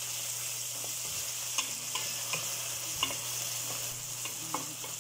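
Onion, tomato and garlic sautéing in oil in a stainless steel wok: a steady sizzle, with a wooden spatula stirring and now and then knocking and scraping against the pan.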